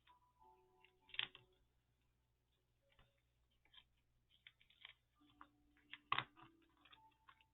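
Quiet handling of paper craft pieces on a work table: scattered light taps and rustles, with two louder taps about a second in and about six seconds in.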